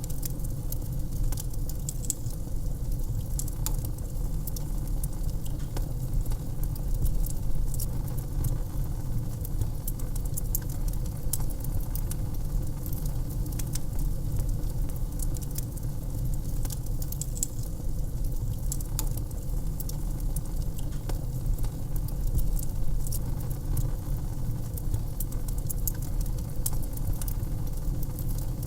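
Wood fire crackling in a fireplace: frequent small crackles and pops, irregular and sharp, over a steady low rumble.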